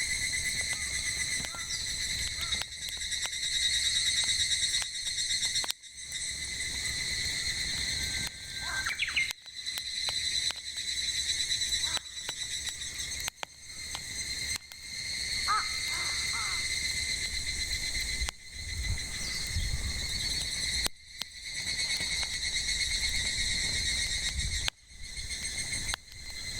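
Cicadas singing in a steady, pulsing chorus, with sharp pops of burning firewood and a few brief bird calls.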